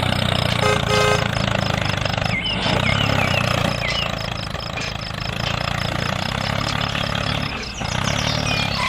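Small engine of a miniature tractor or truck running steadily at idle. There is a short double beep about a second in, and a few brief high chirps between about two and four seconds in.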